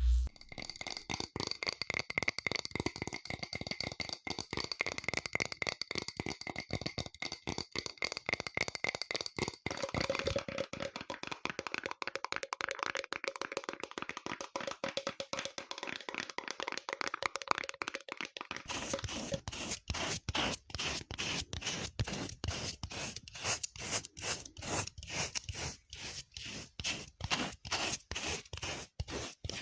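Close-miked ASMR trigger sounds: dense crackling and scratching on objects. The texture changes about ten seconds in. Near eighteen seconds it switches to a more regular run of separate scratching strokes, a few a second.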